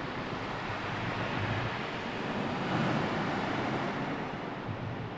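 Sea surf and wind making a steady rushing noise, swelling a little about halfway through.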